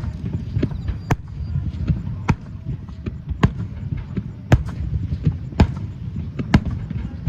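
Fireworks bursting in a steady series, a sharp bang about once a second over a continuous low rumble.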